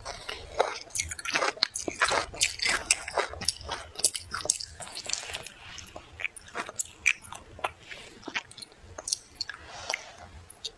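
Close-miked wet chewing of thawed frozen pear, made up of many short, irregular mouth clicks and smacks.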